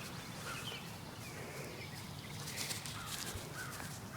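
Faint outdoor ambience with birds calling now and then in the distance, over a low steady hum.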